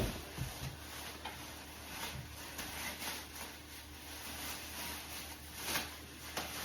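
Faint rustling of plastic rain pants being handled and pulled on, with scattered soft knocks; a sharper knock right at the start and another near the end.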